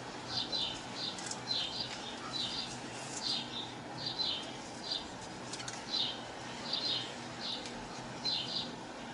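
A small bird chirping over and over, short high chirps about one or two a second, over a steady low hiss.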